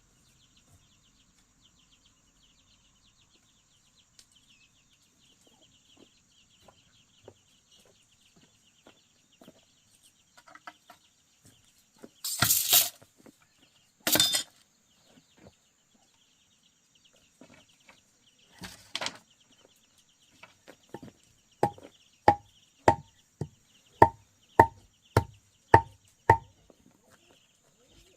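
A hammer strikes a nail into wood in an even run of about nine blows, a little under two a second, each with a short ring, near the end. Earlier, hens cluck and there are a few loud harsh scraping noises.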